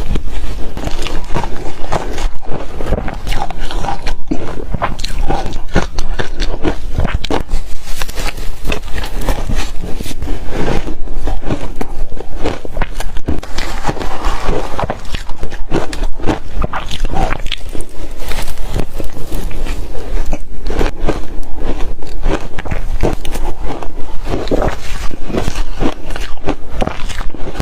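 Reshaved refrigerator ice being crunched and chewed: a continuous run of crisp crunches, several a second.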